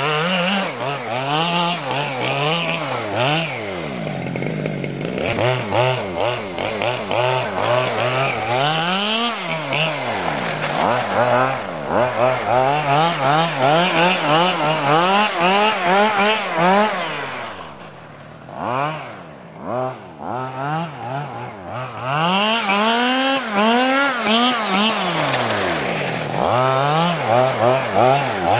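Zenoah 26cc two-stroke engine being run in, repeatedly revving up and dropping back. It quietens for a few seconds past the middle, then picks up again.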